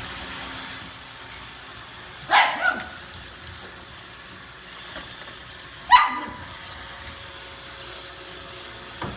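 A dog barks: two quick barks a little over two seconds in, then one more about six seconds in, each falling in pitch.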